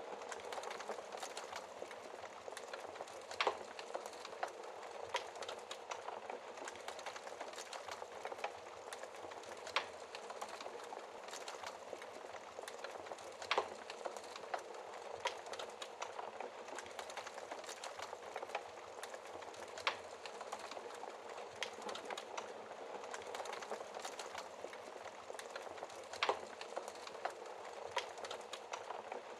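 Wood fire burning in a fireplace: a steady hiss of flames with constant small crackles from the burning logs, and a sharp louder pop every five or six seconds.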